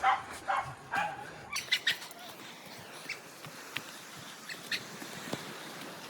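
Dog barking in a quick run of short barks, stopping abruptly about a second and a half in. Quieter outdoor background with a few light scattered clicks follows.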